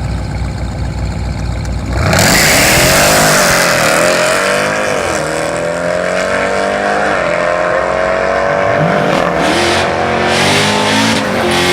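Supercharged 6.2-litre Hellcat V8 of a Jeep Trackhawk idling low, then launching hard about two seconds in and running at full throttle. Its pitch climbs through the gears, with two quick dips at the upshifts.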